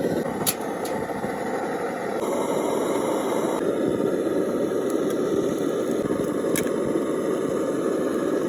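Steady rushing noise with a few faint ticks, unchanging in level.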